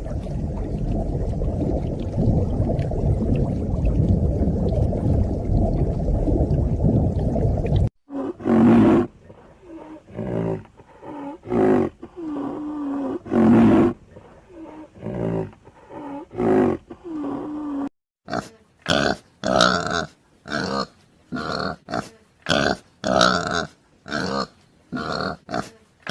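A run of different animal sounds. First comes a low, continuous rumbling for about eight seconds, which stops abruptly. Then there is a series of separate calls about a second apart, and after that a faster string of short, sharp calls, roughly two a second.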